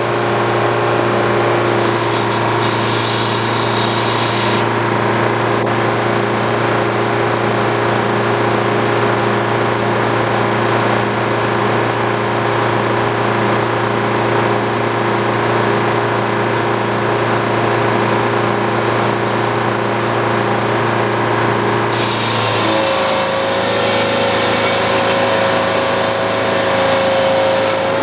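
Engine powering an old Frick sawmill, running steadily with a constant hum. About 22 seconds in, the sound changes: the low hum drops, more hiss comes in, and a steady higher whine holds to the end.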